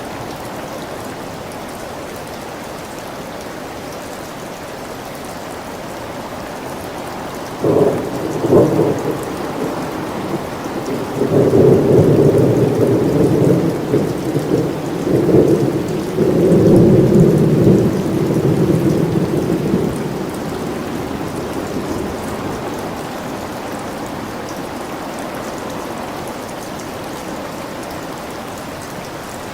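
Steady rain with a thunderclap: two sharp cracks about a quarter of the way in, then a long low rolling rumble lasting some eight seconds before it fades back into the rain.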